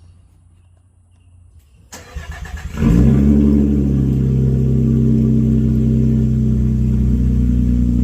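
Straight-piped 3.8-litre V6 of a 2024 Nissan Frontier on a cold start: about two seconds in the starter cranks briefly, then the engine catches with a flare and settles into a loud, steady idle.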